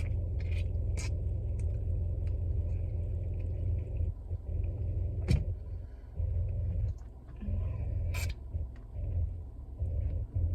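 Steady low rumble of a car's running engine heard from inside the cabin, with a few sharp clicks and taps, one about halfway through and one a little later.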